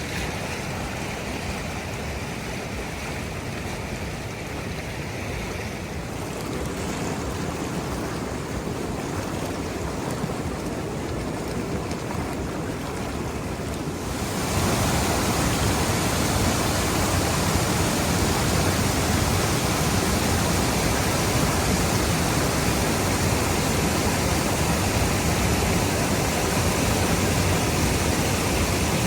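Waterfall on a river rushing steadily. About halfway through it suddenly gets louder and fuller, and stays that way.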